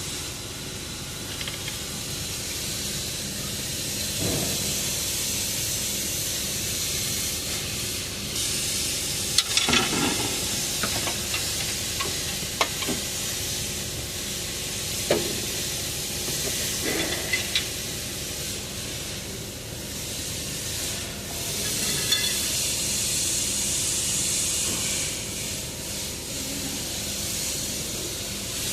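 Steady hiss, with scattered short clicks and knocks of hand tools and parts on metal as parts are fitted back onto the engine.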